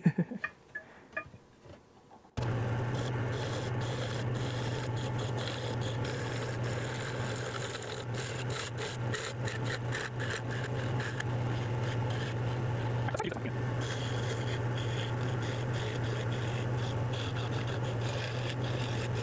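Wood lathe switching on about two seconds in and running with a steady motor hum, while the spinning wooden spindle is rubbed to polish it, giving a continuous rough rubbing noise.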